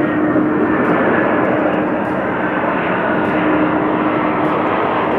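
Jet airliner engines running with a steady noise and a constant hum.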